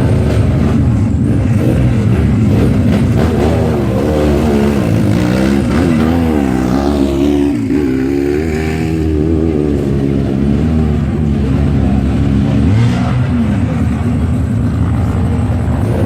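Vintage scramble sidecar outfits' motorcycle engines revving hard, with more than one engine at once and the pitch repeatedly rising and falling as the riders open and close the throttle.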